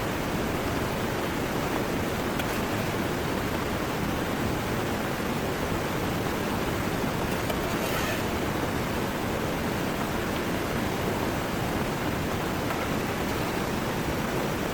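Heavy rain pouring steadily, mixed with the rush of a swollen river: an even, unbroken hiss, with a couple of faint brief patters standing out.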